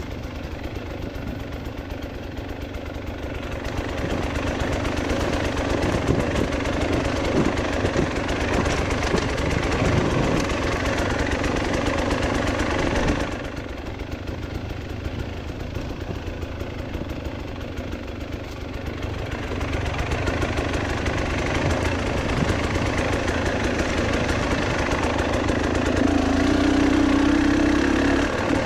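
A vehicle engine running and working under changing throttle, getting louder about four seconds in, dropping suddenly about thirteen seconds in, and building again from about twenty seconds.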